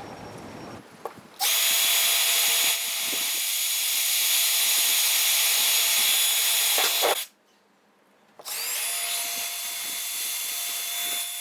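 Small Ryobi cordless drill boring 3 mm pilot holes, running steadily. It runs in two spells, stopping for about a second just past halfway before starting again.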